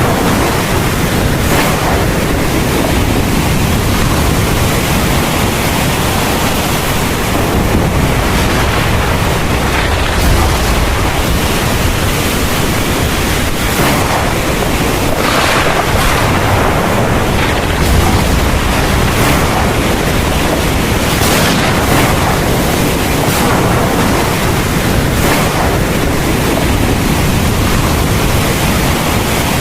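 Heavy thunderstorm rain pouring steadily. A deep low rumble of thunder swells briefly about a third of the way in and again a little past the middle.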